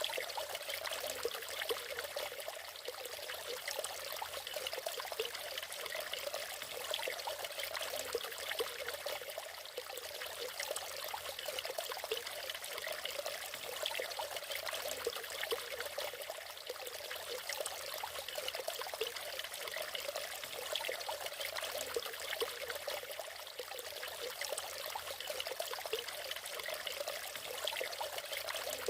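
Natural waterfall, water pouring and splashing in a steady, even rush with little deep rumble.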